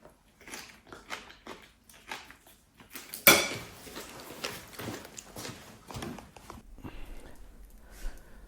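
Irregular small clicks and knocks, with one sharp, loud knock about three seconds in.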